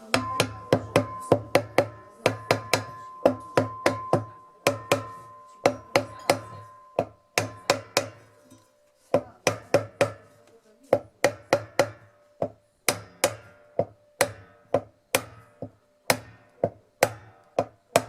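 Hammer tapping a washing-machine drive pulley onto the drum shaft: a long series of sharp metal-on-metal strikes, about two to three a second with a few short pauses, each leaving a brief metallic ring.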